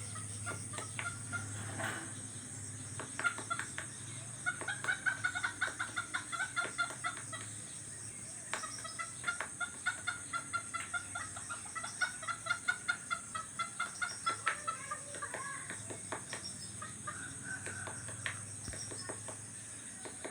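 A bird calling in two long runs of quick repeated notes, about five a second, with scattered sharp taps and a steady high insect hiss behind.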